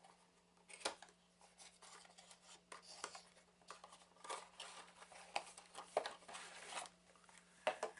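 A cardboard trading-card box and its packing being opened and handled by hand: irregular short scrapes, rustles and clicks, with sharper snaps about a second in and near the end.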